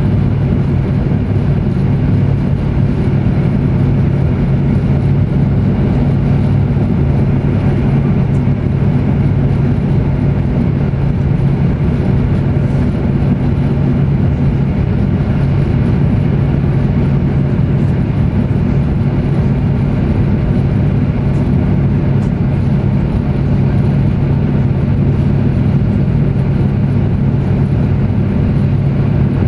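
Steady running rumble and hum of a CRH high-speed train, unchanging throughout.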